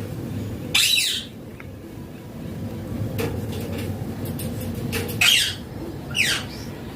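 Indian ringneck parakeet squawking: three loud, harsh calls, one about a second in and two close together near the end, over a steady low rumble.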